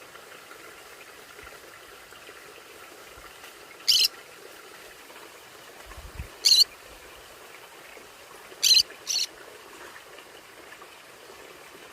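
Conure calling in short, sharp chirps: one about four seconds in, another a couple of seconds later, then a quick pair near the end.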